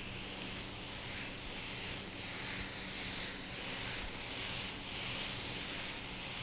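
Bok choy, celery and shredded carrot sizzling in hot oil in a Breville Hot Wok electric wok while being stir-fried with a spatula: a steady, even hiss.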